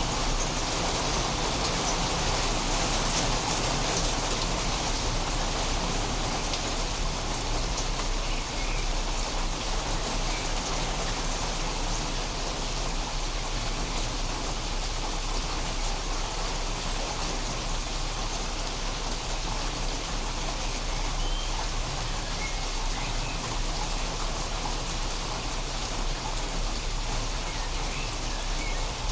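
Steady rain falling during a storm, an even hiss of drops on surfaces with no thunder.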